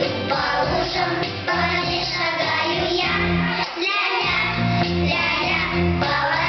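Children singing a pop song over a band accompaniment with a steady bass line; the bass drops out briefly about four seconds in.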